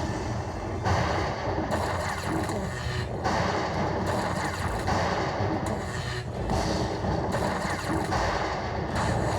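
Lightning Dollar Link – Corrida de Toros slot machine playing its bonus-feature sound effects: a dense, noisy crashing sound that surges every second or two.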